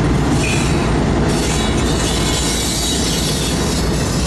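Canadian Pacific freight train passing at close range: a diesel-electric locomotive goes by, then boxcars rolling on the rails, with a loud, steady running noise.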